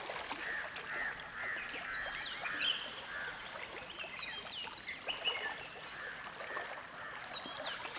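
Birds calling over steady outdoor ambience: a quick run of short arched notes in the first three seconds, then scattered higher chirps.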